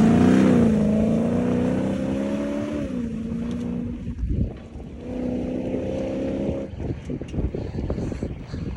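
A 4x4's engine revving hard off-road. The revs climb and hold high, drop about three seconds in, then rise and hold again before falling away near the seven-second mark. Scattered knocks and rattles follow.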